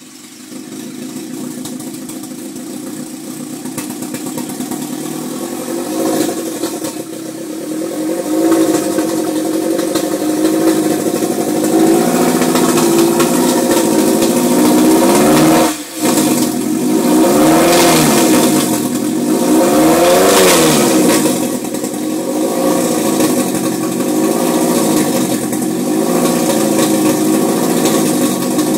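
2002 Acura Type S engine running rough with an odd noise, after being hard to start. The owner first suspected a hole in, or something drawn through, the cold air intake, but the noise stays with the intake disconnected. The sound grows louder over the first several seconds and wavers in pitch, with a brief drop about halfway through.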